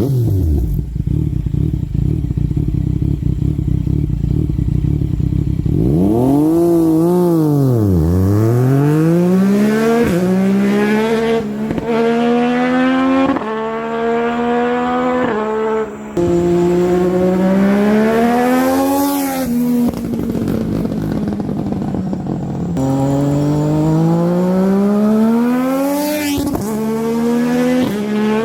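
Yamaha MT-09's three-cylinder engine, a low rough rumble for about six seconds, then revving hard and accelerating through the gears. The pitch climbs and drops abruptly at each upshift.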